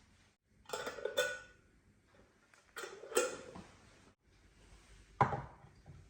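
Dishes and kitchenware being handled: clinks and knocks in three groups, two strikes about a second in, two more around three seconds, and one sharper knock near five seconds.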